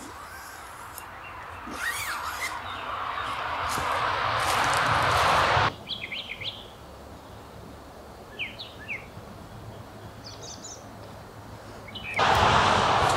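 Small birds chirping in the woods, a few short high chirps in the middle. Before them a rushing noise swells and cuts off abruptly about six seconds in, and another starts suddenly near the end.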